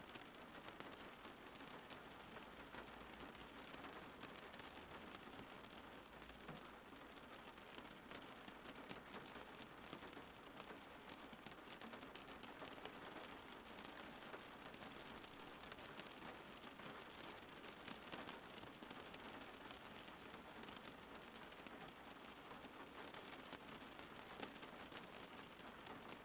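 Steady rainfall, faint: an even hiss of rain with scattered small drop ticks.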